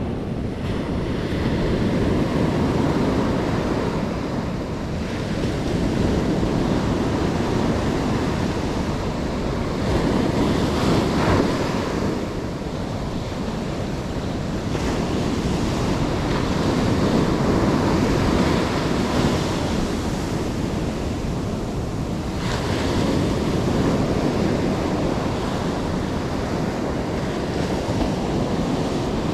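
Surf breaking on the shore, swelling and easing every several seconds, with wind rumbling on the microphone.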